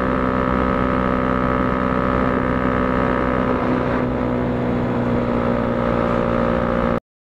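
KTM 200 Duke's single-cylinder four-stroke engine running at steady high revs at speed, easing slightly about four seconds in. The sound cuts off abruptly near the end.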